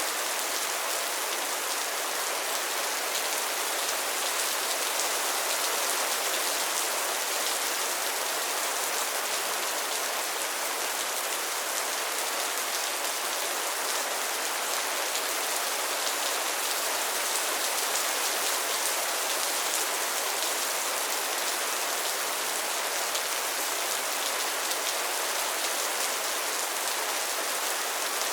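Steady rain falling on a pond's water and lily pads: a dense, even patter of drops over a constant hiss.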